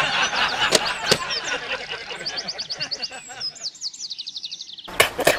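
Small birds chirping, many quick high calls overlapping, with a rapid run of repeated trill notes in the middle and a couple of sharp clicks early on. About five seconds in it cuts abruptly to louder noise with sharp knocks.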